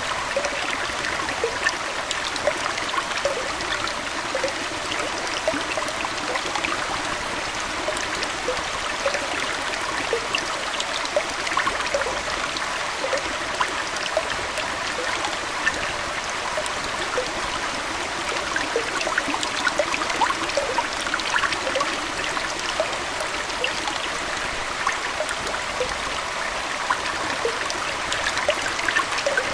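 Aquarium water flowing and trickling steadily, with a constant stream of small splashes and bubbling droplets.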